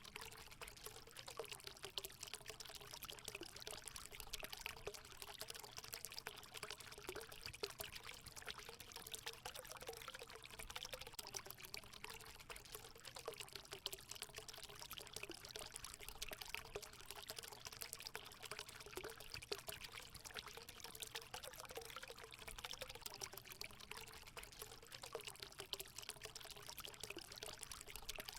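Natural water running steadily into a hot spring pool: a faint, continuous pouring and splashing with a wavering gurgle.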